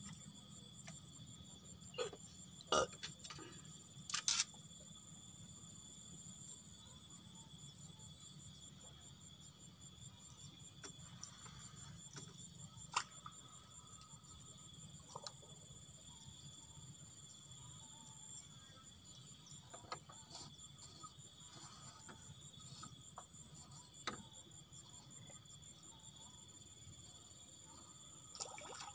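Crickets chirring steadily in a high, fast-pulsing drone, with a few sharp clicks and knocks, the loudest about three and four seconds in.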